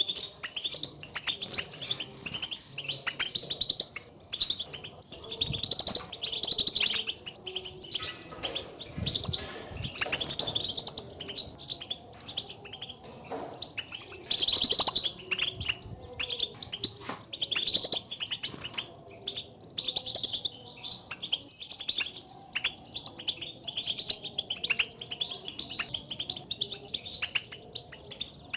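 European goldfinches giving their rapid twittering contact calls, a continuous stream of quick, high chirps. This is the call goldfinches use to call to one another and signal where they are.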